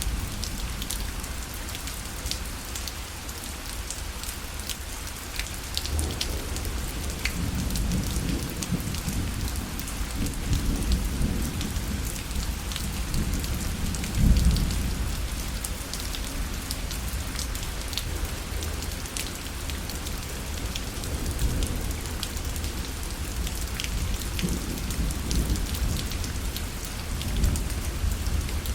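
Steady rain pattering on a parasol, with many small drop hits. Low rumbles swell in about six seconds in and again near the end, the loudest about halfway through.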